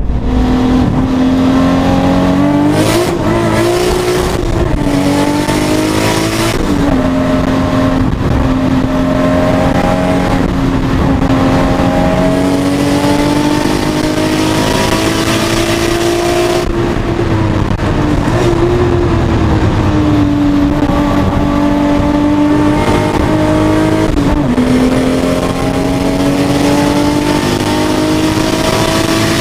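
Toyota Supra's straight-six engine heard from inside the cabin under hard driving on track, its note climbing with the revs and dropping sharply a few times at gear changes, over road and wind noise.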